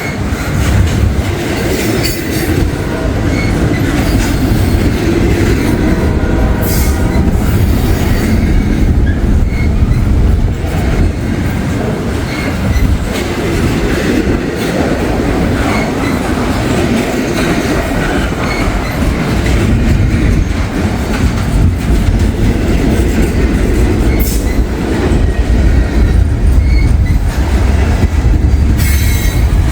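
Loud train passing close by: railcars rolling past with a steady rumble, wheels clacking over the rail joints and squealing faintly now and then.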